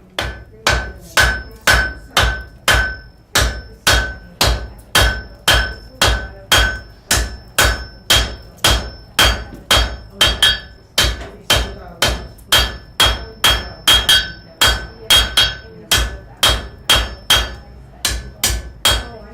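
Blacksmith's hammer striking metal on an anvil in a steady rhythm of just under two blows a second, each blow leaving a bright ringing tone. The blows stop just before the end.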